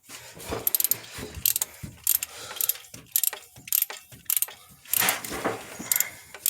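Socket ratchet wrench clicking in short repeated strokes, about two a second, as a spark plug is turned in its well.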